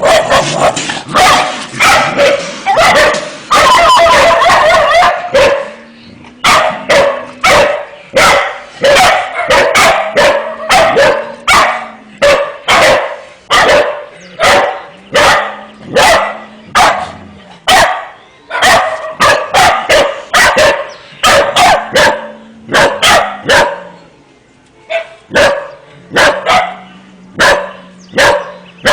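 Dogs barking in a frenzy: a dense, continuous burst of barking for the first few seconds, then a long run of sharp, separate barks about one or two a second, with brief lulls. A faint low steady tone sounds in several of the gaps between barks.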